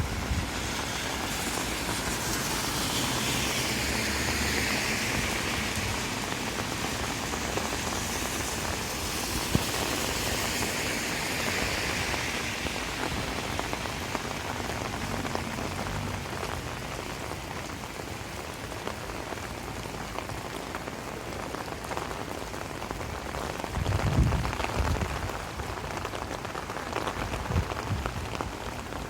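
Steady rain falling on the street and pavement, hissing more strongly in the first half. A brief low rumble comes near the end.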